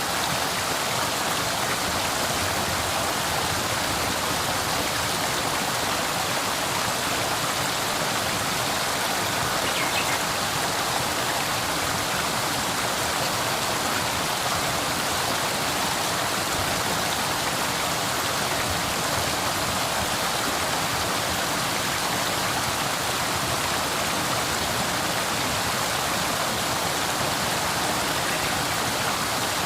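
River water flowing steadily: an even, unbroken rush.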